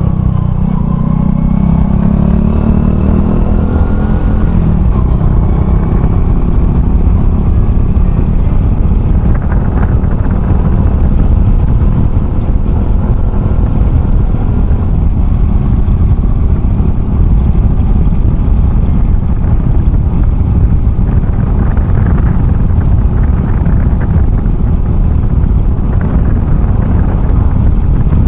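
A Honda Cross Cub 110 fitted with an aftermarket RPM Raptor muffler, heard on the move: its 110 cc single-cylinder four-stroke engine gives a pitched note that shifts in the first few seconds. After that, a steady low rumble of engine, wind and road noise on the microphone takes over.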